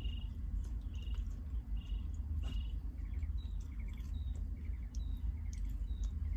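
Small birds calling outside in short, evenly repeated chirps, about one a second; from about halfway through, a higher chirp alternates with a quick three-note trill. A steady low rumble runs underneath.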